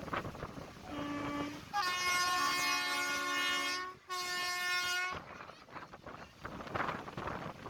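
Locomotive horn sounding: a short low toot, then a long multi-tone blast, a brief break and a second shorter blast, over the rumble of the moving train.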